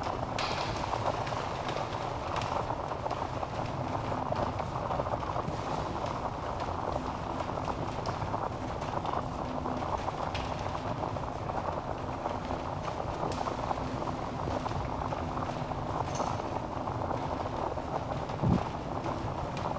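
Log fire burning in a fireplace: a steady hiss of flames with irregular crackles and pops, and one louder low thud near the end.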